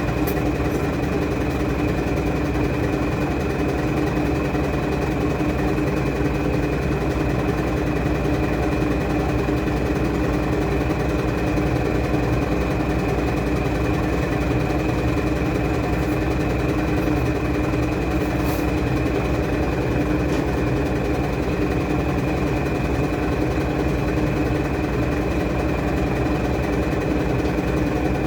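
Washing machine running with a steady motor hum and a faint high whine that hold unchanged throughout.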